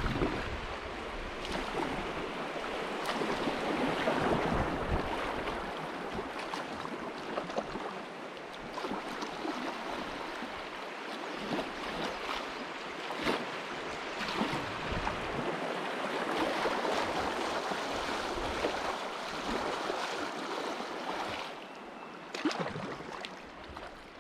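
River water rushing and splashing around a kayak on the moving current, swelling and easing in level.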